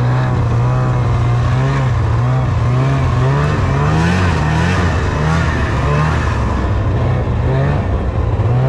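Snowmobile engine running under light throttle, its pitch rising and falling as the throttle changes; the engine is still a little cold.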